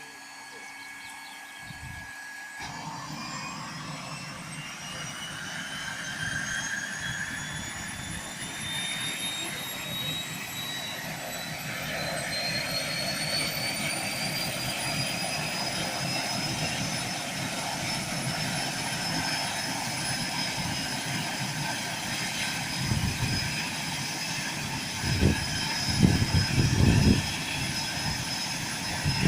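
Small plane's engine running, with a high whine rising steadily in pitch as power builds. Several heavy low thumps come near the end.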